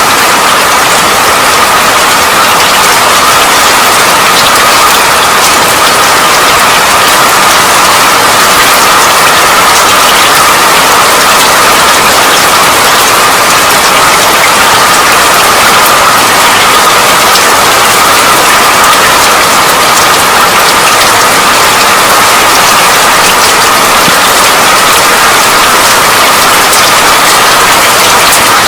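Steady rain falling: a loud, even hiss of many drops, with fine patter and no change in strength.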